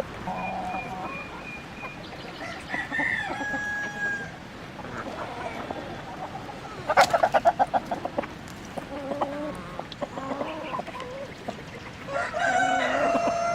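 Chickens clucking and calling, with a loud rapid cackle about seven seconds in and a long drawn-out call, like a rooster's crow, near the end.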